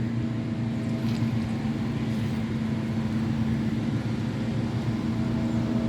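An engine running steadily, a constant low-pitched hum that does not change.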